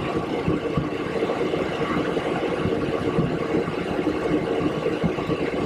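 Steady hum inside a Boeing 727-200's flight deck with its three rear-mounted JT8D turbofans running at idle: an even rush of noise with a few steady tones held through.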